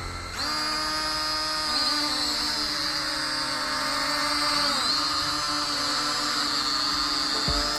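Teng Mini KF609 camera drone's small motors and propellers spinning: a steady high-pitched whine with slight wavers in pitch. It starts suddenly just after the beginning and cuts off shortly before the end.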